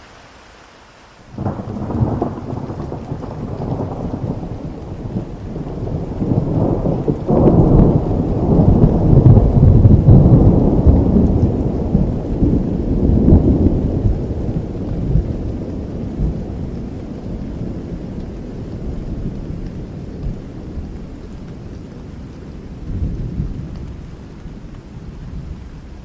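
A long roll of thunder over steady rain: it breaks in suddenly about a second in, swells to its loudest around eight to ten seconds, then rumbles slowly away.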